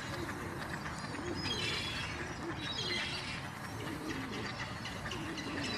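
Birds calling: scattered short, high chirps over lower, wavering cooing notes that repeat every second or so, with a steady background noise underneath.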